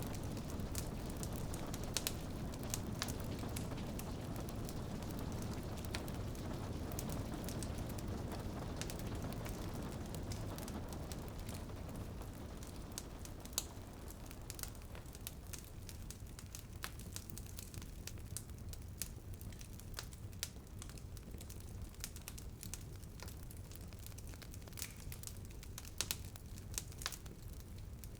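Wood fire crackling, with frequent sharp pops and snaps, over a steady soft hiss of rain on a window that eases off about halfway through.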